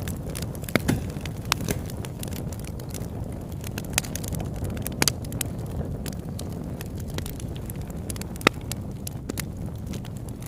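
Campfire burning: irregular sharp crackles and pops of burning wood over a steady low rush.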